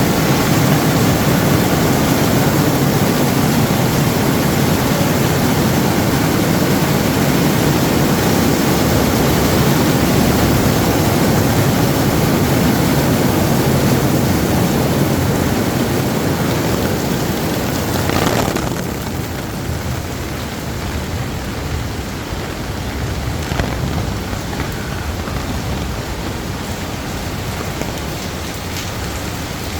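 Heavy rain pouring down as a steady rushing hiss, loudest for the first two-thirds and easing a little about 18 seconds in.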